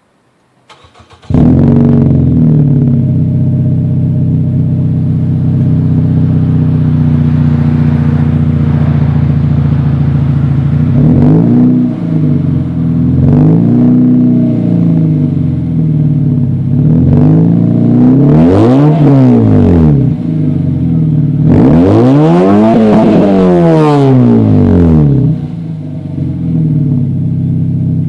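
2.3-litre Mazda 6 four-cylinder engine running through an exhaust with the muffler removed. It starts about a second in and idles steadily, then is revved and let fall back several times; the highest and longest rev comes about three quarters of the way through.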